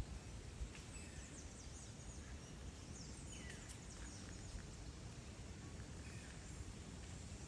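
Faint tropical forest ambience: many quick, high-pitched chirps sweeping downward, thickest in the first half, over a low rumble of wind or handling noise.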